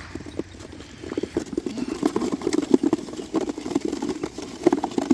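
A flock of young racing pigeons taking off together from a release crate. Their wings clatter in a dense, rapid flutter that starts about a second in and keeps going.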